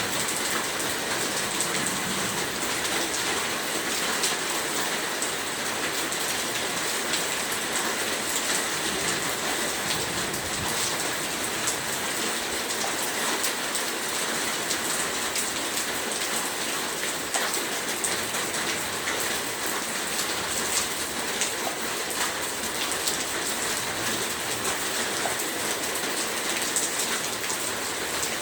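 Heavy rain falling steadily, a dense even hiss of drops with many small patters and ticks.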